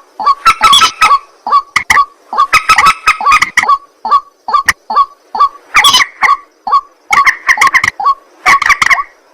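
Rails calling, from a recording titled for white-breasted waterhen and common moorhen: short, harsh notes repeated several times a second in runs, with brief pauses between the runs.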